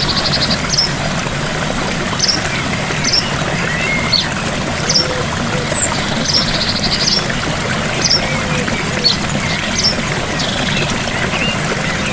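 Gentle waterfall's steady rush of falling water, with small birds giving short high chirps throughout and a brief rapid trill about six seconds in.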